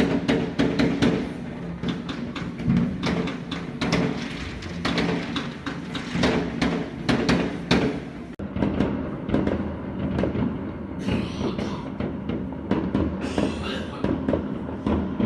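New Year's fireworks going off all around: a dense run of bangs and crackles over a steady low hum. After a break about eight seconds in, the bangs continue more sparsely, with two hissing bursts of about a second each near the end.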